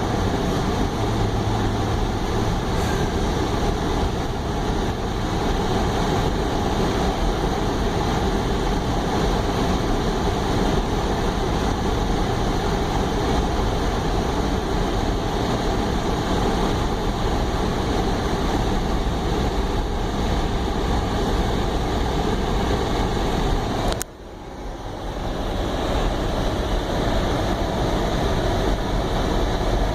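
Steady road and engine noise inside a moving car's cabin, a continuous low rumble and hiss of tyres on the road. About 24 seconds in there is a sharp click, and the noise dips and swells back over a couple of seconds.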